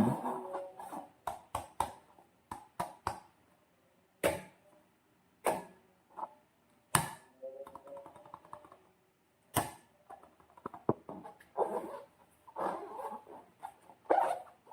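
Hands working slime and transparent balloons: scattered sticky clicks and squelches, a few louder crackly pops, and short squeaky tones now and then.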